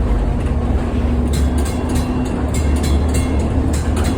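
1948 Philadelphia PCC streetcar running under power, a steady low rumble of steel wheels on rail. Scattered sharp clicks and knocks come in from about a second in.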